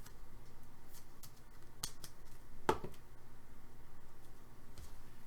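Hands handling hockey trading cards and packs: a few sharp clicks and light ticks, over a faint steady low hum.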